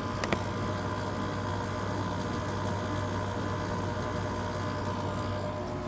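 1999 Whirlpool 5000 BTU window air conditioner running on cool, with a steady hum from its LG rotary compressor. The compressor sounds strained, "not too happy". A brief click comes just after the start.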